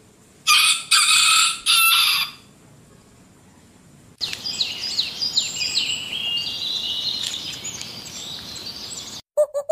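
A rooster crowing once, loud, in three close parts. After a short pause, small birds chirping busily with many quick falling notes until the sound cuts off near the end.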